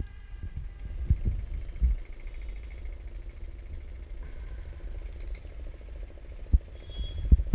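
A small motor running steadily with a fast rattle over a low rumble, with heavy thumps about a second in, near two seconds, and twice near the end.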